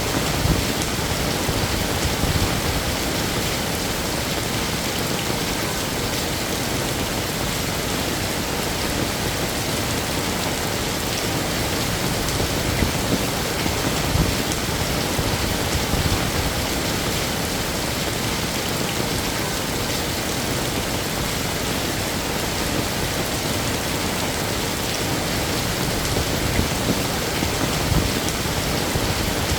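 Heavy rain falling steadily, a dense even hiss of drops on hard surfaces with small irregular swells.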